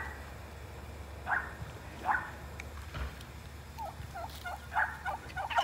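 Bird calls: two short calls, then a quick run of short warbling notes near the end.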